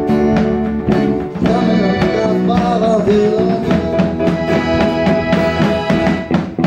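A school band playing a pop song live, with sustained chords and a steady beat, in an instrumental stretch between sung lines.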